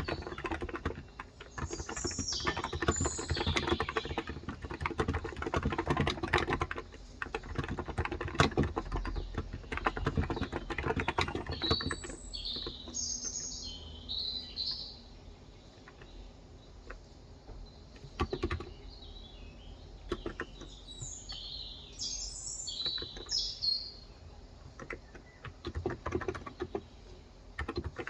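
Typing on a Cox Endeavor non-contact capacitive tenkeyless keyboard with 35 g switches: fast, dense keystrokes for about the first twelve seconds, then slower, sparser ones. Birds chirp in short bursts in the background, three times.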